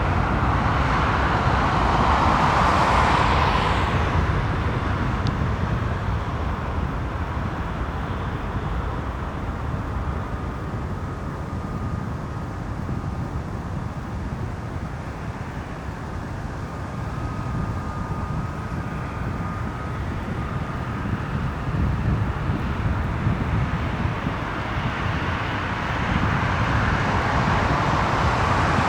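Jet engines of a Boeing 737-800 (CFM56-7B) running near the runway: a steady roar that is louder at the start, eases off through the middle with a faint high whine, and swells again near the end.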